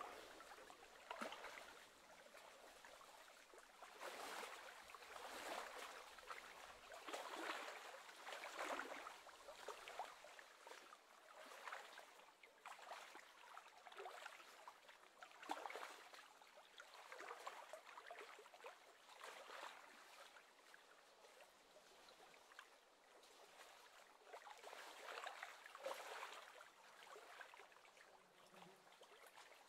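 Near silence, with faint water lapping that swells and fades in small irregular surges every second or so.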